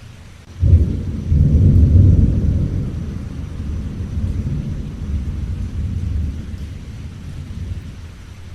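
A thunderclap breaks suddenly about half a second in and rolls on as a deep rumble that slowly fades. Steady rain hiss runs underneath.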